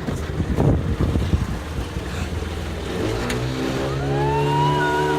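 Motorboat engine running over wind and water noise; about three seconds in, its pitch rises as it speeds up, then holds steady.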